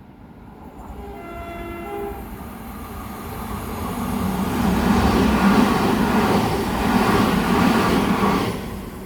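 A passing train sounds a short two-tone horn, then runs past with loud rail and wheel noise that builds to a peak and stops abruptly near the end.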